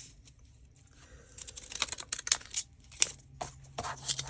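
Ripple-edge craft scissors snipping through paper, a run of quick irregular clicks, several a second.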